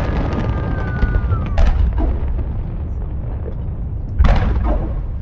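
Aerial fireworks shells bursting over a continuous deep rumble of booms. About one and a half seconds in, a whistle slides down in pitch and ends in a sharp crackling burst, and a louder burst comes about four seconds in.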